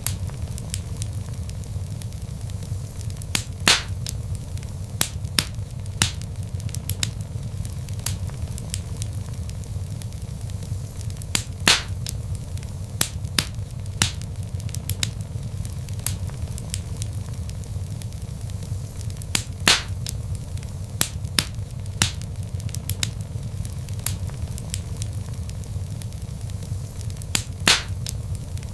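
Wood fire burning in a fireplace: a steady low rumble of flames with frequent sharp crackles and pops from the logs, a few much louder pops among them.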